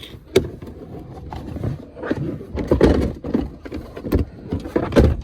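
Irregular clicks, knocks and rustling of hand work as an airbag (SRS) control module is lifted out of its mount inside a car, with a few sharp knocks spread through it.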